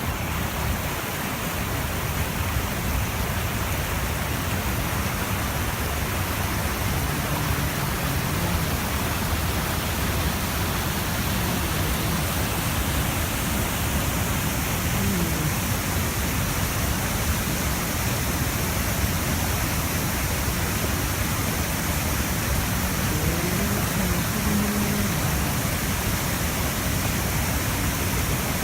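Mountain stream swollen by heavy rain from the rainy season and a typhoon, its water rushing loudly and steadily.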